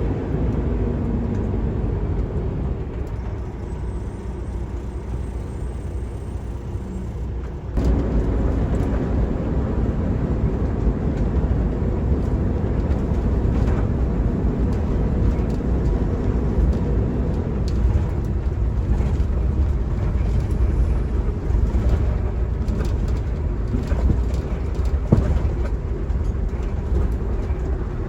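Loaded semi truck running while it drives, a steady low rumble of engine and road noise. About eight seconds in it turns suddenly louder and stays that way.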